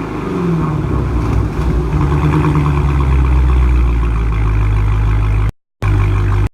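Dodge Hellcat's supercharged 6.2-litre HEMI V8, with the mid-mufflers deleted, dropping in pitch from a rev during the first second and settling into a steady, deep idle. The sound cuts out briefly near the end.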